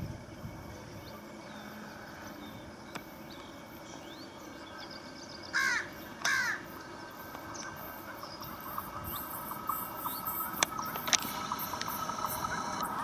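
A crow cawing twice, about six seconds in, over a low background. In the second half a faint steady high tone with scattered clicks slowly grows louder.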